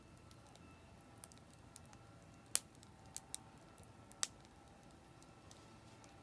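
Oak firewood burning in a campfire, crackling with sharp pops: about six, the loudest about two and a half seconds in and another strong one a little after four seconds.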